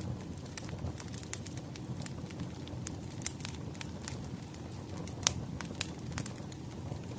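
Wood fire crackling: irregular sharp pops and snaps over a low steady rumble, with one loud pop about five seconds in.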